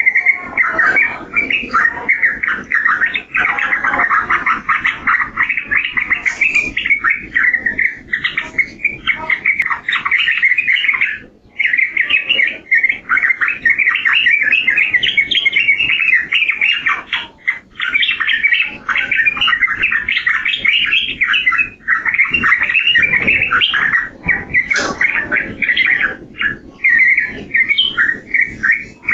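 Sooty-headed bulbul (trucukan) singing in a continuous stream of rapid chattering notes, with a short break about 11 seconds in.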